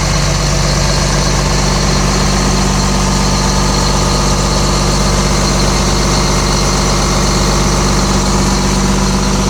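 Case 921C's diesel engine running steadily at an even speed, with no change in pitch.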